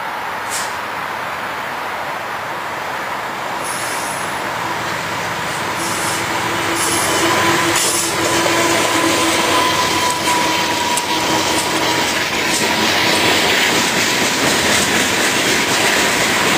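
A diesel locomotive and its train passing close by, the rumble growing louder as it approaches. Through the middle seconds a thin, steady, high-pitched wheel squeal rides over it.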